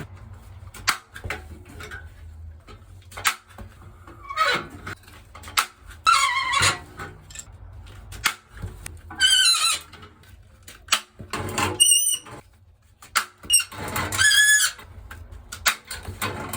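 Electronic beeps from a floor-heating manifold's zone controls, several a few seconds apart and slightly warbling, with clicks and knocks in between, as each zone of a six-port manifold signals.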